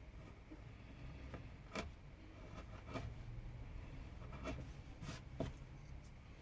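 Carving tool cutting into pine wood: a handful of short, sharp cutting strokes at irregular intervals over a faint steady hum.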